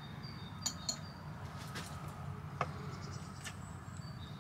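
Quiet background with a few faint light clicks and brief faint high chirps.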